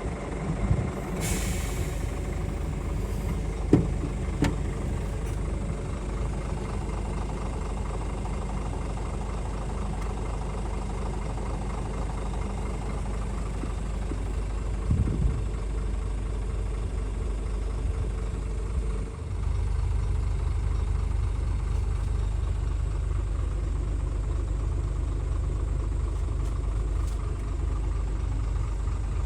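Scania R450 truck's 13-litre six-cylinder diesel idling steadily, with a short hiss of released air about a second in. A little after halfway the engine note briefly dips, then runs on slightly louder.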